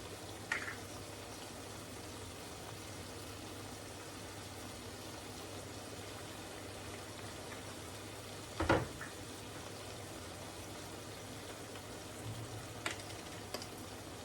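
Kitchen sounds: a steady hiss and low hum with a few light knocks and clicks, the loudest knock about nine seconds in.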